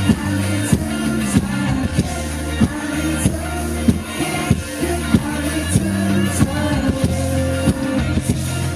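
A live pop-rock band playing, with bass guitar, drums keeping a steady beat and cymbals.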